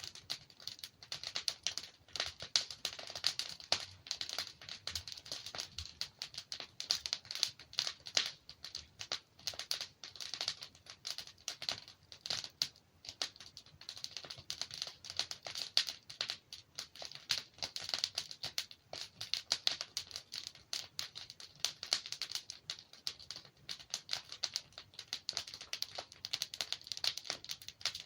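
Wood fire crackling and popping as logs burn, a dense run of small irregular snaps and crackles.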